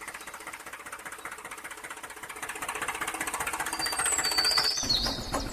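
Small electric hobby motor driving a model chaff cutter mechanism, running with a rapid, even clatter that grows louder. A few high chirps come in near the end.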